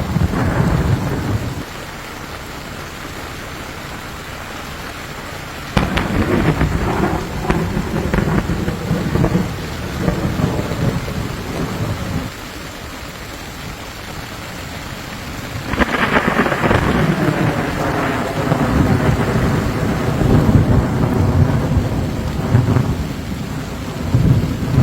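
Steady rain with repeated rolls of thunder: one fading in the first two seconds, another about six seconds in, and a long rumble from about sixteen seconds in to the end.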